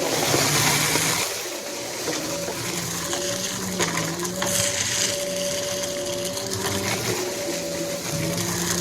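Vacuum cleaner running steadily, its motor humming with a hiss of airflow, with scattered clicks and crackles of debris being sucked up during a mess test.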